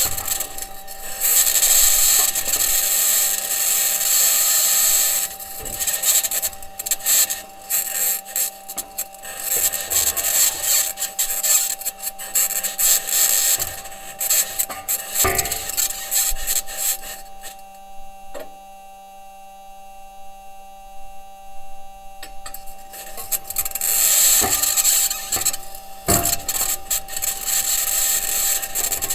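Perseverance Mars rover driving: its wheels and suspension grinding and scraping over the ground, with a high-pitched scraping noise and a steady hum underneath. The scraping drops away for a few seconds in the middle, leaving only the hum, then comes back.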